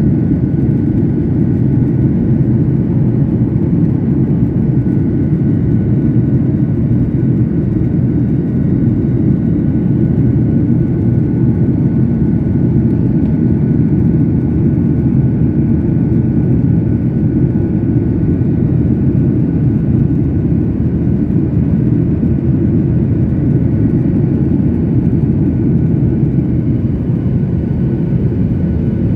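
Steady cabin noise of a jet airliner in flight: a constant low rumble of engines and airflow, with faint high steady whines above it.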